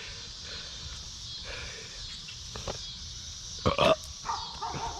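A person lets out one loud, rough burp about three and a half seconds in, brought on by eating very hot peppers.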